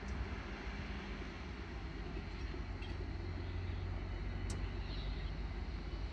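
Train running by, a steady low-pitched noise with a faint hum that stops about a second in.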